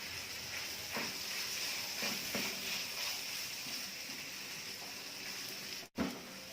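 Minced chicken frying in a pan with ground spices: a steady sizzle, with a few light knocks and scrapes of a spoon against the pan as the mince is stirred and broken up.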